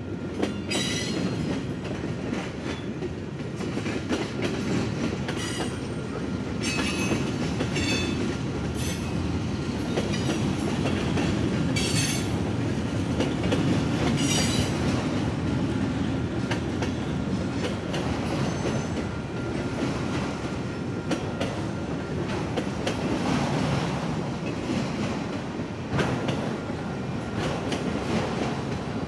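Freight train cars rolling past at close range: a steady rumble with clickety-clack from the wheels on the rail joints. Several brief high-pitched wheel squeals come in the first half.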